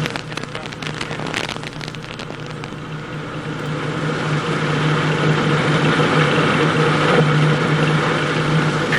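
Soyuz-2.1a rocket engines firing during ascent: a continuous rushing noise with crackle over the first few seconds, growing louder about four seconds in, over a steady low hum.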